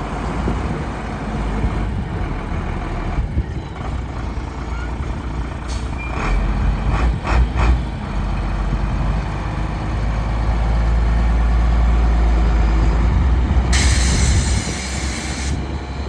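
1991 International 4000-series truck's diesel engine running with a steady low rumble, growing louder for a few seconds past the middle, with a few sharp knocks before that. Near the end, a burst of air hisses for about two seconds, like an air brake releasing.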